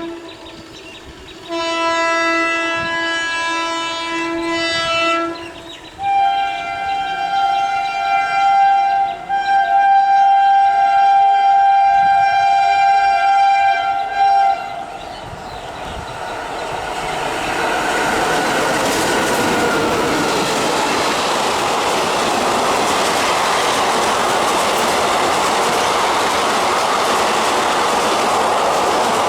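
WAP-4 electric locomotive horn: a lower note blown twice, then a long higher note for about eight seconds. Then the train passes at speed, its LHB coaches making a loud, steady rush of wheel and rail noise with clickety-clack.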